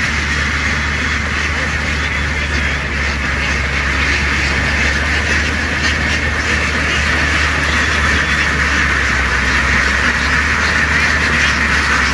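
A very large flock of ducks quacking together in a continuous din, over the steady low hum of a boat's engine.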